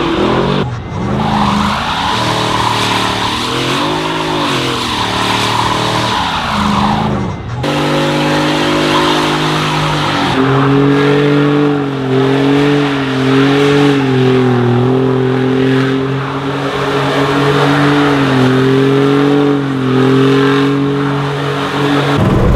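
Truck burnout: the engine is held revved, its pitch wavering up and down, over the squeal of spinning tyres. The engine note dips briefly twice in the first eight seconds, then settles into a steadier, held note.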